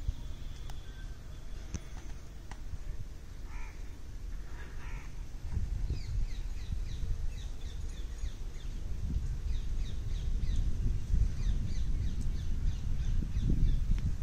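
Birds calling: two short calls a little over three and around five seconds in, then a run of quick high chirps repeating through the rest, over a low rumbling background.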